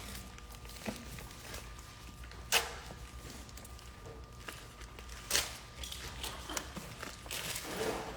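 A few light knocks, about 1 s, 2.5 s and 5.5 s in, and a brief rustle near the end, over a faint steady electrical hum.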